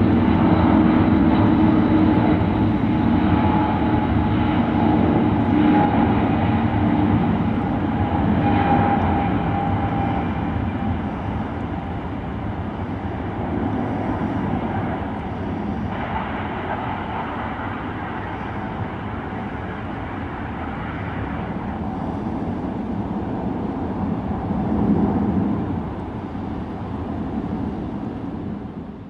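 Jet airliner engine noise, loudest at first with a few steady whining tones that fade out over about ten seconds as the level drops. A lower steady rush follows, with a brief swell near the end.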